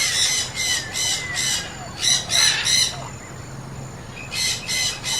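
A bird giving short, harsh calls in three quick runs of about three each, near the start, about two seconds in, and near the end, with fainter thin whistling calls from other birds underneath.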